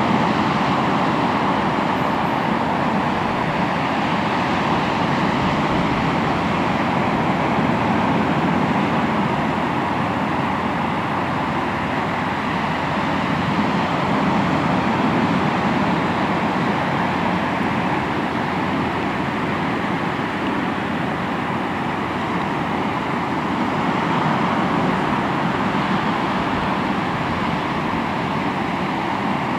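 Ocean waves breaking continuously on the shore, a steady wash of surf that swells and eases gently every several seconds.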